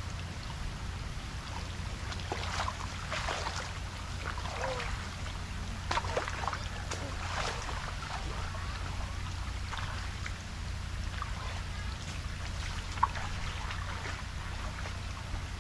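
Water splashing and trickling over a steady low rumble, like a vehicle moving through floodwater on a road, with a single sharp knock near the end.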